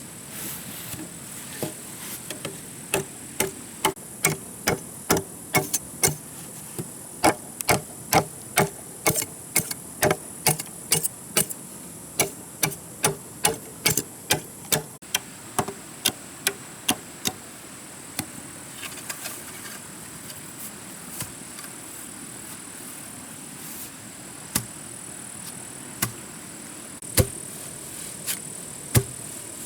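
Sharp, regular strikes of a tool on a hard material, about two a second for some fifteen seconds, then a few scattered single strikes, over a steady high-pitched insect drone.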